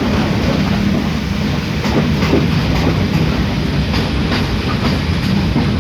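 Passenger train running along the track: a steady rumble of wheels on rail, with the clack of wheels over rail joints now and then.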